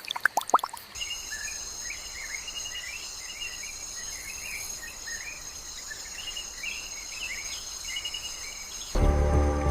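Crickets or other insects trilling steadily at a high pitch, with small bird-like chirps underneath. A few quick dripping plinks come in the first second. Music starts near the end.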